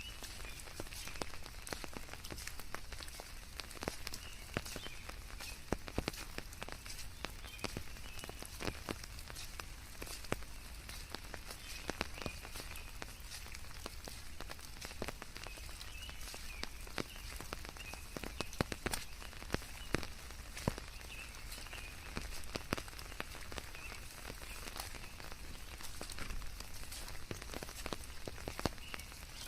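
Steady rain falling on leaves: a soft, even hiss with many separate drops ticking at irregular moments throughout.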